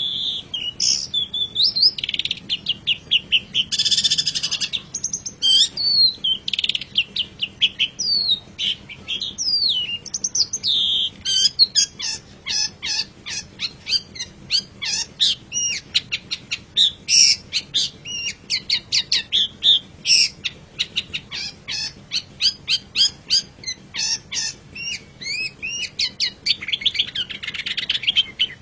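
Long-tailed shrike (cendet) singing a varied song. It starts with whistled glides and harsh chattering notes, then from about twelve seconds in breaks into a long, fast run of short repeated notes.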